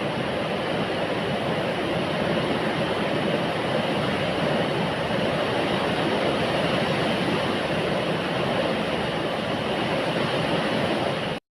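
Heavy rain falling, a steady dense hiss that cuts off suddenly just before the end.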